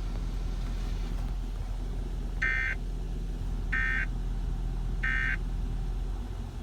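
Emergency Alert System end-of-message tones closing a storm warning broadcast: three short, shrill data bursts about a second and a half apart, over a steady low hum.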